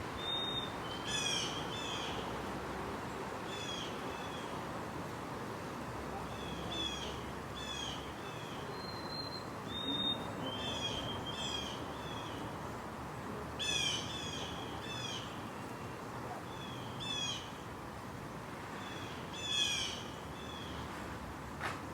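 Bird calls: short pitched notes in clusters of two to four, repeating every second or two. A single sharp click near the end.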